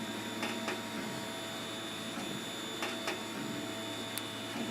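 Large homemade 3D printer running, its stepper motors whining steadily as the carriage moves, with a few brief clicks.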